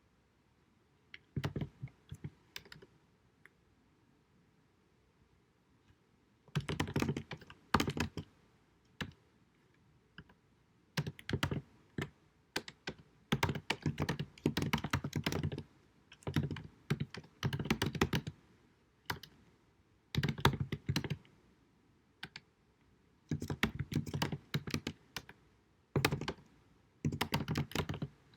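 Typing on a computer keyboard in a lo-fi recording: bursts of rapid keystrokes separated by short pauses, with a pause of about three seconds near the start.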